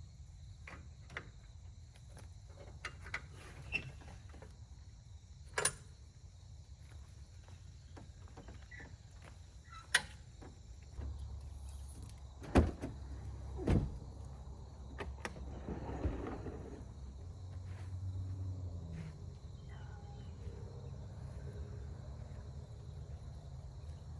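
Scattered knocks, clicks and a brief rustle of camp gear being handled and set up, over a faint low rumble.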